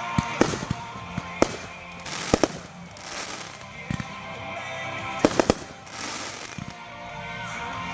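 Consumer fireworks going off in a hand-lit show: a dozen or so sharp bangs at irregular intervals, with a quick run of three about five seconds in. A song plays under them throughout.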